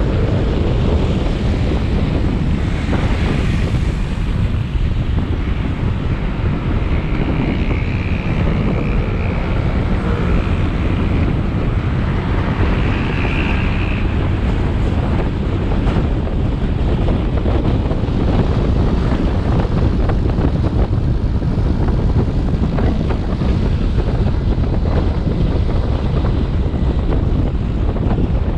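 Motorcycle engine running at riding speed, with wind noise on the action-camera microphone and road noise, steady and loud. A few brief higher whines come and go in the first half.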